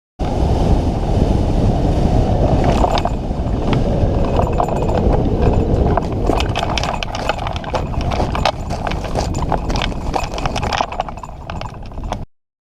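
Strong wind buffeting the microphone as a heavy low rumble, with a run of irregular clicks and knocks starting about three seconds in. The sound cuts in and out abruptly.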